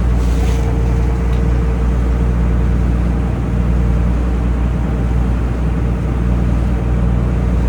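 A taxi boat's engine running at a steady speed, a low, even drone with the hull and water noise of the boat under way.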